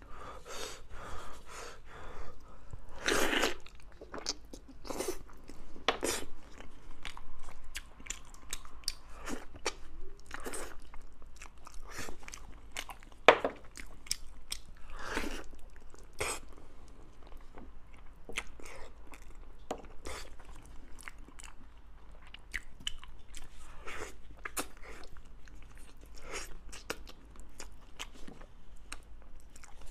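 Close-up chewing and wet mouth smacks on soft braised pig's trotter, mixed with sticky tearing as gloved hands pull the meat apart, heard as irregular sharp clicks.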